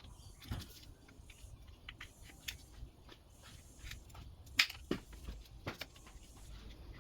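Scattered light clicks and knocks of small parts and tools being handled on a workbench, the sharpest click about four and a half seconds in, over a low steady hum.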